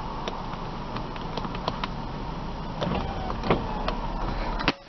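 Nissan Pathfinder power window motor running, with scattered small clicks. It stops abruptly with a sharp click near the end.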